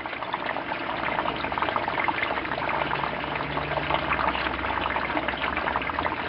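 Water splashing and trickling steadily as it flows through a home aquaponics system into a tank, with a low hum underneath from about half a second in.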